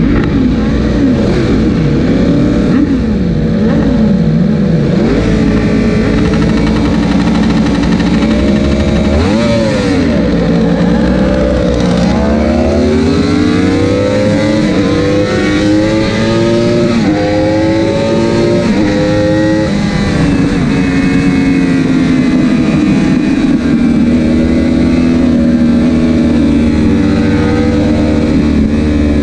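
Racing superbike engine heard onboard. It revs unevenly for the first several seconds, then from about twelve seconds in accelerates hard through the gears: the pitch climbs and drops back at each upshift. After about twenty seconds it holds a steady high rpm.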